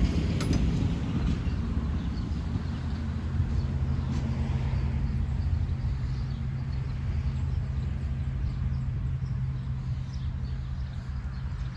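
Engine running steadily at idle, an even low drone that holds one pitch.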